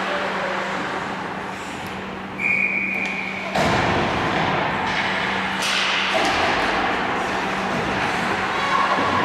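Ice hockey game sounds in a rink: a short, clear whistle blast about two and a half seconds in, then sharp knocks, like a puck or sticks hitting the boards, a second later and again about two seconds after that, over a steady low hum.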